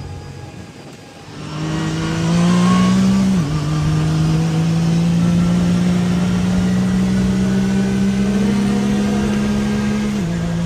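Side-by-side UTV engine pulling hard under acceleration. Its note climbs from about a second and a half in, drops suddenly as it shifts up a gear, then climbs slowly through a long pull before a second upshift near the end.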